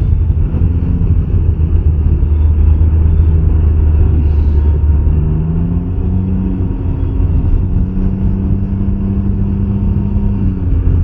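2021 Can-Am Ryker 900 three-wheeler running on the road, its engine and a heavy low rumble heard from the rider's seat. The engine note rises a little about five seconds in, then holds steady.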